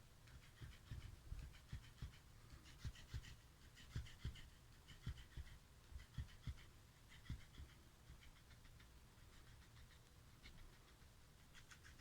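Faint, close sounds of a pet cat: irregular soft thumps with bursts of quick faint clicking, busiest in the first seven seconds and thinning out after.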